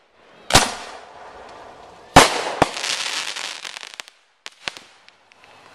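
Consumer fireworks going off: two loud bangs about a second and a half apart, each trailing off over a second or so, a sharper single bang just after the second, then a few small pops near the end.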